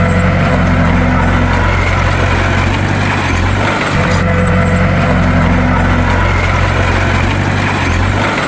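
Bulldozer's diesel engine running steadily, a continuous low drone whose pattern repeats about every four seconds.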